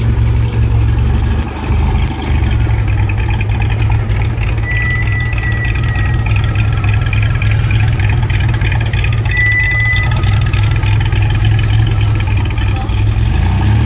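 DeLorean DMC-12 engine running as the car rolls slowly past, a steady low rumble. Two short high tones sound about four and a half and nine and a half seconds in.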